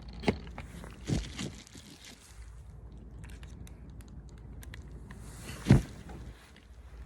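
Several sharp knocks and clicks of hands and parts against a plastic car bumper being fitted, with faint ticking between them and the loudest knock near the end.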